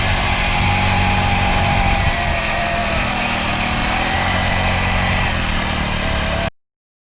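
Engine of a small kids' dirt bike running while ridden, its pitch shifting slightly with speed. The sound cuts off abruptly about six and a half seconds in.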